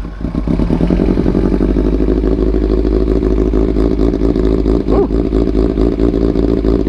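Kawasaki ZX-6R inline-four engine idling steadily through an SC-Project CRT carbon exhaust, with a loud, even exhaust note.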